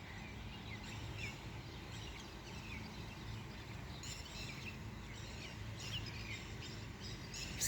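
Birds chirping faintly in short scattered calls over a steady low background hum.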